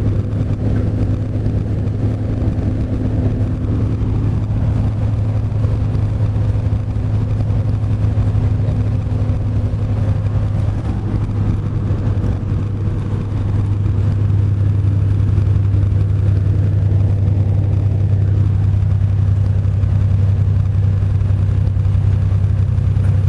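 Truck engine running at a steady low drone with road noise while driving; it grows a little louder about 14 seconds in.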